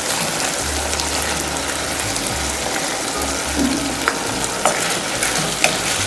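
Chicken and onions sizzling steadily in a frying pan. A few sharp clicks about four to six seconds in as bell pepper pieces are tipped in and a wooden spatula stirs the pan.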